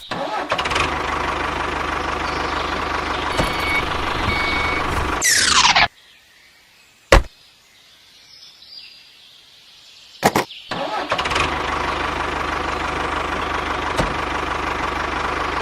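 Small electric motor of a homemade toy tractor whirring steadily. It cuts off after about five seconds with a quick falling sweep, leaving near silence broken by a single click. About ten seconds in, the motor starts whirring again.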